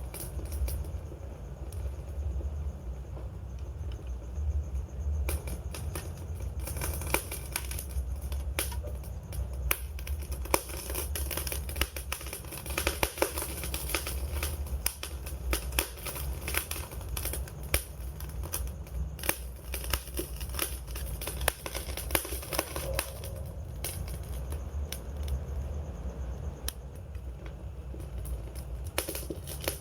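Campfire crackling: an irregular stream of sharp snaps and pops over a steady low rumble, the snaps growing busier after about five seconds.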